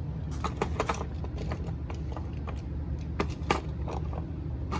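Light clicks and clatter of diecast toy monster trucks being handled on a toy race track, with a cluster of knocks about half a second in and another a little past three seconds, over a steady low hum.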